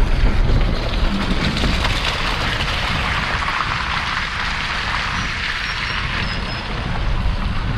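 Steady rain hiss with a low vehicle rumble underneath, swelling slightly in the middle.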